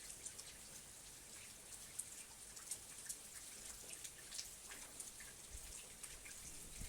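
Faint steady rain, with many separate drops and drips ticking sharply over a high hiss.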